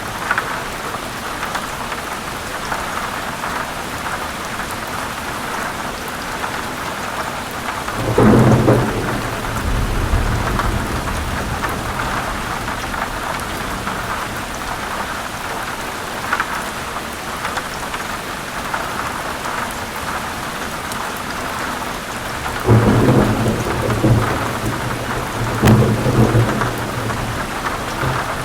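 Steady heavy rain falling on leaves, with low thunder rumbles: one about eight seconds in, and two more close together near the end.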